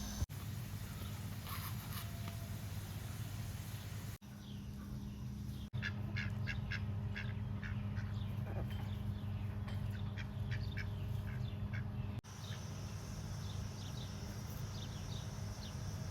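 Farm poultry calling in a quick series of short notes over a steady low hum. The calls are busiest in the middle and thin out toward the end.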